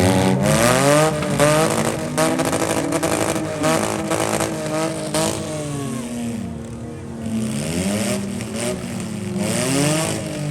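Demolition derby vans, trucks and SUVs revving their engines, several pitches rising and falling at once, with repeated sharp crashes of metal in the first half as the vehicles hit each other.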